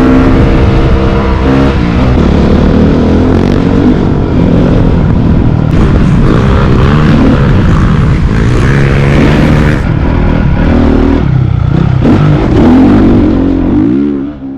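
Dirt bike engine running and revving loudly, its pitch rising and falling.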